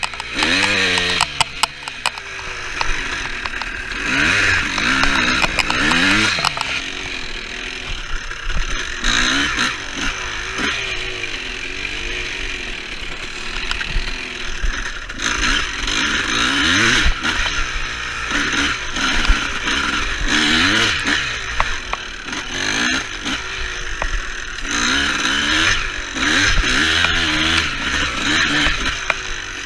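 Dirt bike engine revving up and down over and over, rising and falling in pitch as the bike is ridden along a tight woods trail.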